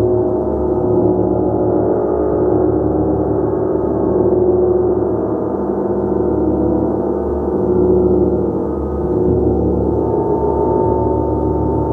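A gong played continuously, its overlapping tones building into a dense, sustained wash that swells and eases every few seconds.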